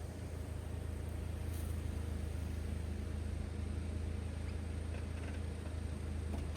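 Steady low drone of a vehicle running, even and unchanging throughout.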